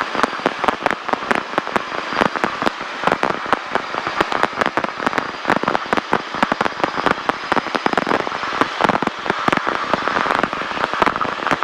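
Severe static on the Robinson R-22's radio and intercom audio: dense, irregular crackling and popping with no let-up.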